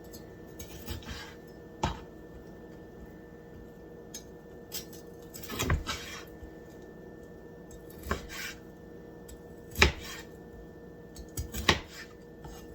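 Knife cutting raw chicken into chunks, the blade knocking sharply on the cutting board about five times, roughly every two seconds.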